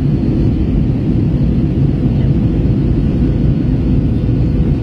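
Airbus A321 cabin noise in flight: a steady low rumble of engines and airflow, with a faint steady hum on top.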